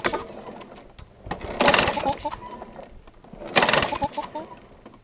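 Small push-mower engine being pull-started over and over, a short rasping whir of the recoil starter about every two seconds, without catching: the engine has been killed by dirt fed into its carburetor. Birds chirp faintly between the pulls.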